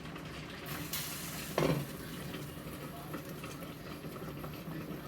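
Pot of chicken broth and dumplings boiling on the stove, a steady bubbling hiss. There is a brief clink of kitchen utensils about a second in, and a short knock about a second and a half in.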